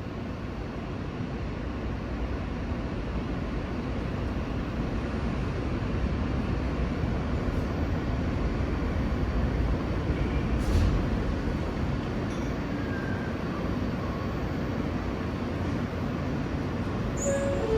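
New York City subway train (L line) pulling out and running through the tunnel, heard from inside the car: a steady rumble of wheels and traction motors that builds over the first few seconds and then holds, with one sharp knock about eleven seconds in.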